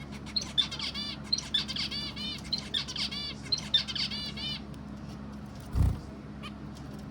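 A bird chirping: four quick runs of high, arched chirps over the first four and a half seconds, then a short low thump about six seconds in.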